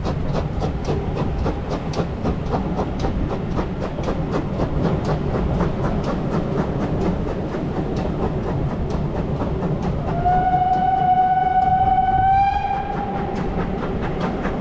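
A steam-hauled heritage train running over jointed track, heard from aboard, with the regular clickety-clack of wheels over the rail joints. The train is hauled by 2807, a GWR 2800-class 2-8-0 steam locomotive. About ten seconds in, the locomotive's whistle sounds one steady note for some two and a half seconds, rising slightly at the end as the train comes into the station.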